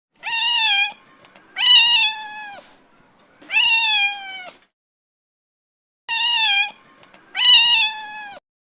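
Domestic cat meowing: five drawn-out meows, three and then two after a short silence, each slightly falling in pitch at the end.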